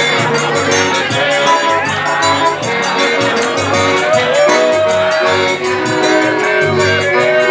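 Forró band music with a steady, even beat.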